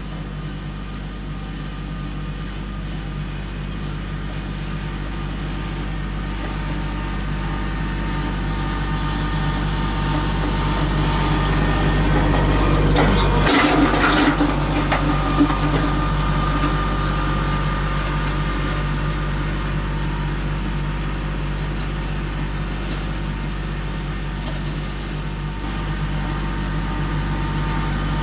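Kubota L3901 compact tractor's diesel engine running steadily under work, growing louder toward the middle and then easing off. A short clatter of knocks comes about halfway through.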